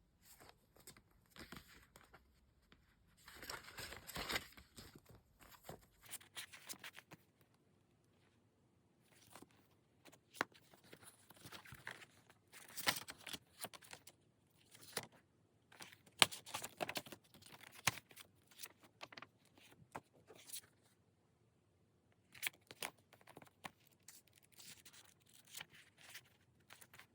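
Manga books and their packaging being handled. There is a short tearing rustle about four seconds in, then scattered light taps and clicks of covers and paper.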